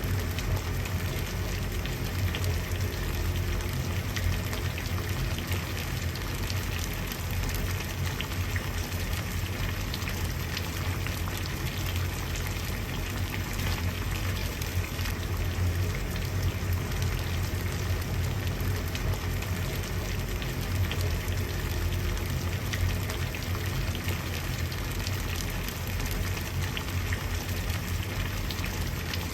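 Water at a steady boil: continuous fine bubbling and popping with a low rumble underneath, unchanging throughout.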